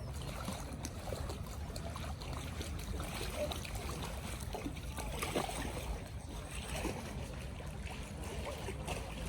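A vehicle moving slowly through floodwater, water sloshing and splashing around it over a low steady rumble.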